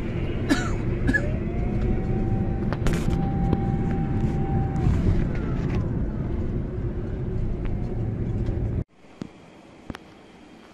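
Vehicle on the road: a steady low engine-and-road rumble with a few knocks and a held tone lasting about three seconds, which cuts off abruptly about nine seconds in to a much quieter background with a few faint clicks.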